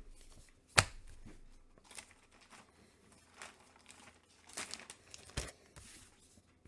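Packaging crinkling and rustling as items are handled, with a sharp click about a second in.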